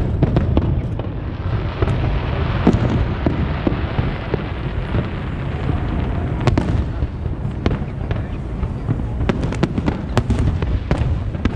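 Fireworks display: a steady low rumble of bursting shells with many sharp bangs and crackles scattered throughout, several of the loudest coming in the second half.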